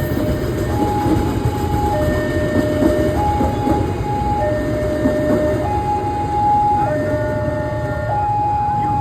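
Freight train rolling past with a steady rumble, under a two-tone hi-lo warning alarm that switches between a higher and a lower tone about every second. Fainter high whining tones join near the end.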